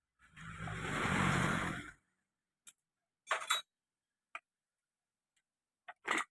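Small metal engine parts clinking and tapping as a motorcycle engine is taken apart by hand, several short sharp clicks spread out. Near the start a rough noise runs for almost two seconds before the clicks.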